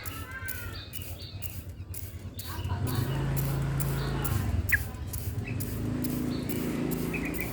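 Trucukan (yellow-vented bulbul) chirping: a run of short arched calls at the start, one sharp rising note midway and a few notes near the end, over a low steady hum.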